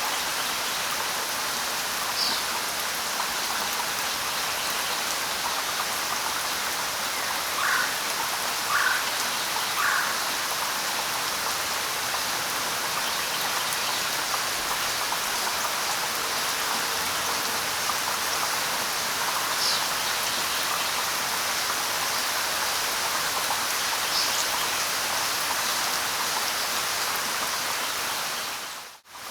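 Steady light rain falling on leaves, with a few short bird chirps scattered through it, three in quick succession about eight seconds in. The sound drops out briefly just before the end.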